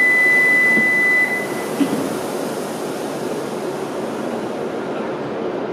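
Train running at a station platform, a steady rushing noise, with a steady high electronic beep that stops about a second in.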